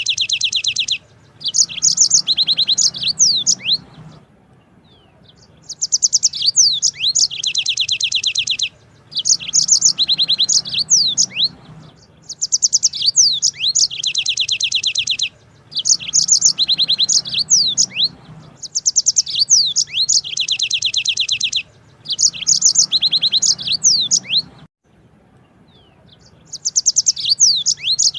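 Yellow-fronted canary (Mozambique canary) singing long rolling trills. Each phrase of rapid high notes lasts two to three seconds, with short pauses between phrases and two longer pauses, one around four seconds in and one near the end.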